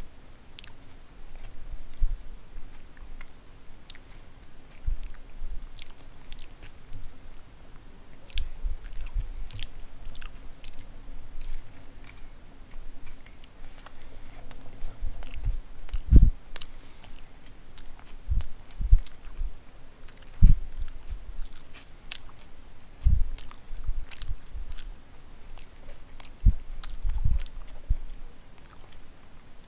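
Close-miked chewing of a footlong sub sandwich: wet mouth clicks throughout, with irregular low thumps every few seconds, the loudest about sixteen seconds in.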